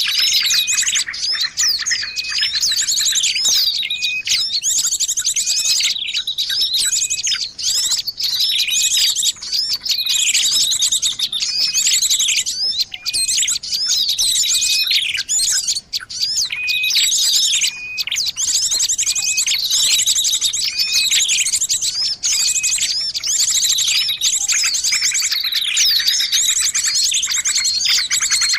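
Recorded songbird chirping and trilling, many high calls overlapping without a break, played as a lure to call wild birds in.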